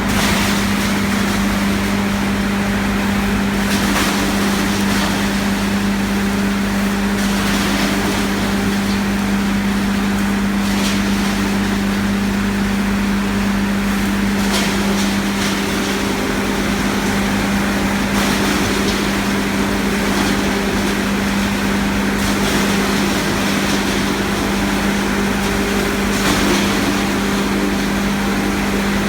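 55 kW wood hammer crusher running steadily while grinding wood veneer into sawdust: a loud, constant hum under a dense grinding noise, with short bursts of clatter now and then as pieces are struck.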